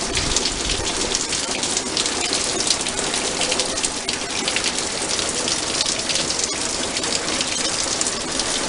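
Steady heavy rain falling and pattering on surfaces, with many sharp ticks of single drops striking close by.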